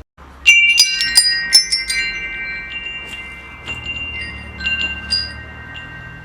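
Metal wind chimes struck in a quick cluster about half a second in, several bright tones ringing on and slowly fading, with a few lighter strikes in the second half.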